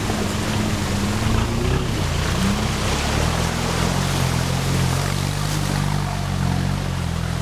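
Off-road 4x4 driving through a river: its engine runs steadily under load while water rushes and splashes around the vehicle.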